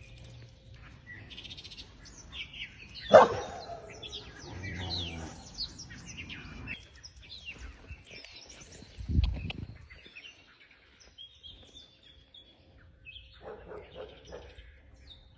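Small birds chirping repeatedly in the background, with a single loud sharp sound about three seconds in and a dull low thump about nine seconds in.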